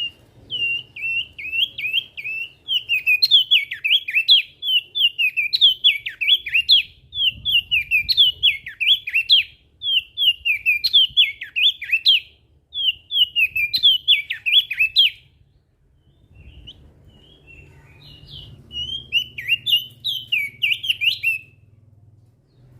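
Crested darkeye (opior jambul) singing in fast, twittering, up-and-down phrases, one after another, pausing about fifteen seconds in and starting again a few seconds later.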